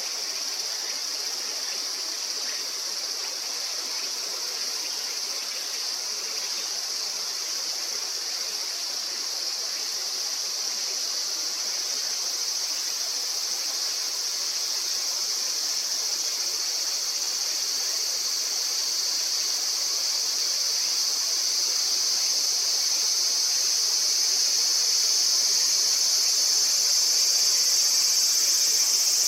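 Steady high-pitched shrilling of a summer insect chorus, growing gradually louder, over the even rush of a river.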